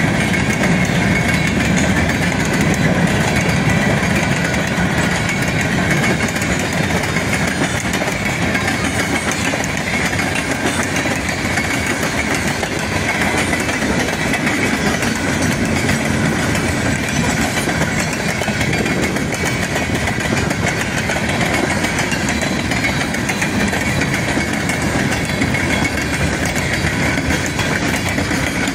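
Freight train cars rolling past at a grade crossing: a steady, continuous noise of steel wheels running on the rails.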